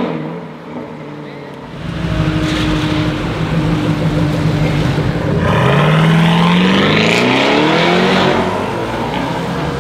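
Gemballa Tornado 750 GTS, a tuned Porsche Cayenne with a twin-turbo V8, running at low revs. About five and a half seconds in it accelerates hard, its exhaust note rising in pitch for about three seconds, then eases off.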